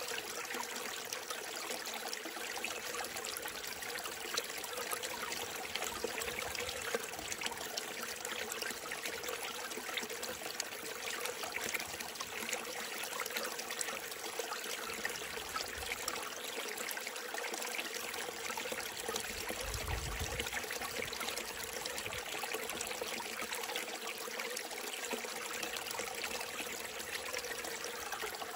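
A small mountain stream trickling and splashing over rocks, a steady unbroken burble.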